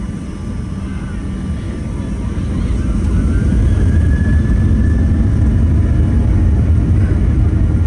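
Boeing 737-800 cabin noise heard from inside the cabin: engine and airflow rumble that grows louder about three seconds in and then holds steady, with a faint rising whine at the same time.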